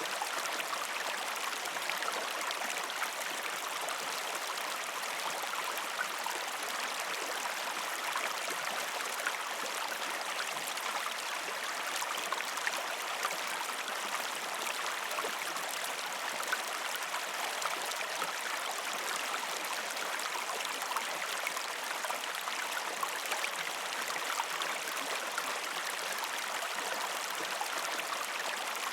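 A small river or stream flowing over rocks: a steady, even rush of water with fine splashing and bubbling.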